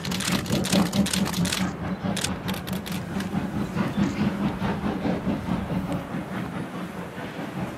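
Steam-hauled train of wagons rolling across a stone viaduct, its wheels clattering over the rail joints over a steady rumble; the clatter is densest in the first three seconds and then thins out.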